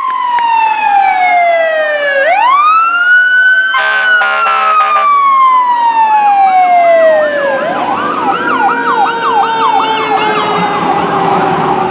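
Fire engine sirens. One siren wails, sliding slowly down and sweeping back up twice, and a second siren joins about halfway with a quick rising-and-falling warble. A few short blasts of an air horn sound about four seconds in.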